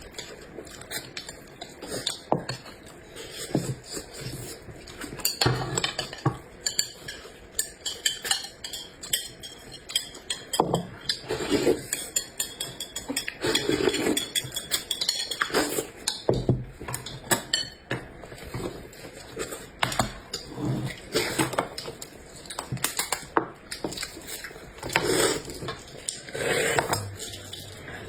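Close-miked eating: chewing and mouth sounds mixed with cutlery clinking against dishes, in many irregular clicks and short bursts.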